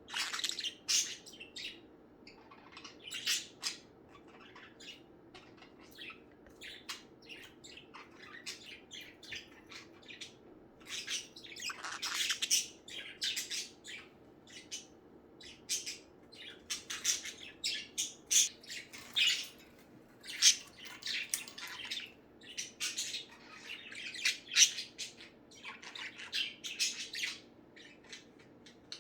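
Pet budgerigars chattering: many short, scratchy chirps and squawks come in quick irregular bursts, with several birds calling over one another.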